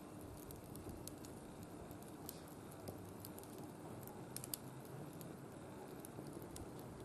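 Wood fire burning in a barbecue grill, crackling with scattered, irregular small pops.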